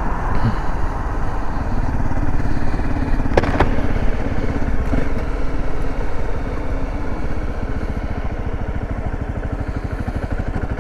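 Dirt bike engine running as the bike is ridden, a steady rapid train of firing pulses, a little quieter in the second half. A single sharp click sounds about three and a half seconds in.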